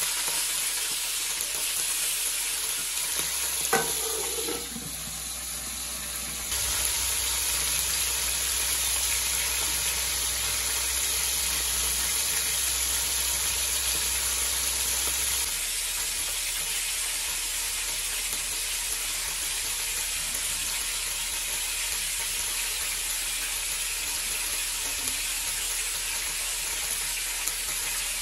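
Chicken pieces sizzling as they fry in hot oil in an aluminium karahi: a steady frying hiss, with a short knock about four seconds in.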